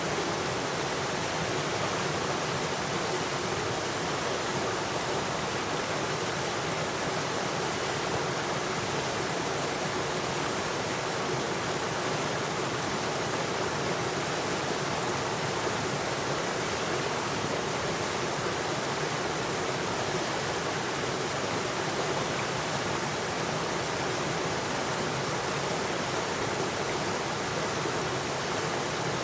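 Flowing water making a steady, even rush with no breaks or changes.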